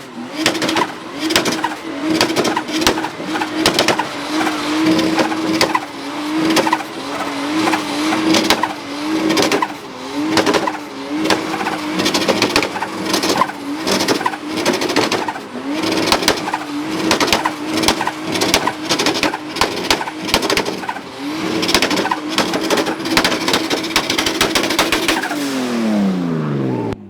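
A vehicle engine held at high revs, its pitch wavering slightly, over a dense crackle and tire noise, typical of a burnout. In the last couple of seconds the revs fall away steeply and the sound dies down.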